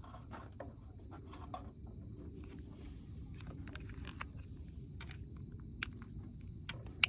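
Outdoor campsite ambience: a steady low rumble with a thin, steady high tone like a cricket or other insect, and scattered sharp clicks and pops, the loudest ones near the end.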